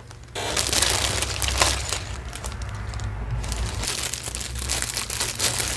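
Plastic jewelry packaging crinkling and rustling as it is handled, with many small clicks, starting about half a second in.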